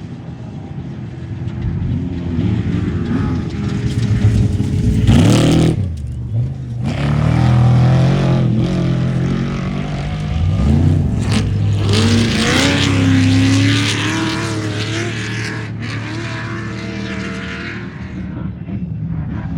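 Off-road race vehicles' engines running hard and revving, their pitch rising and falling as they pass, with a couple of abrupt cuts.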